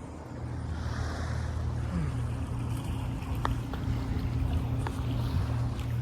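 Wind rumbling over the microphone by open water, with two faint clicks about three and a half and five seconds in.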